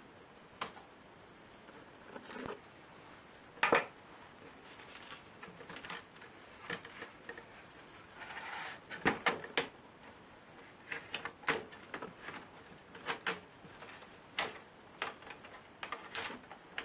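Irregular small clicks, taps and knocks of Lenovo Y570 laptop parts being handled during disassembly, with a brief rustle or scrape a little past the middle and the sharpest knock a few seconds in.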